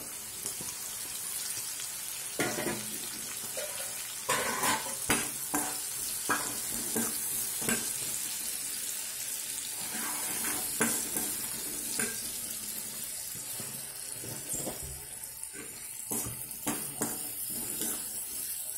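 Green peas frying in oil in a metal kadhai, a steady sizzle, with a metal spoon repeatedly clinking and scraping against the pan as they are stirred.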